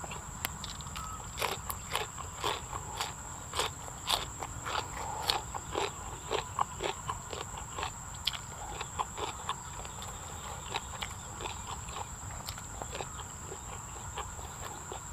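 Close-up chewing of raw beef laab and crisp fresh vegetables: wet crunching and smacking clicks, thick in the first half and thinning out later, over a steady high-pitched whine.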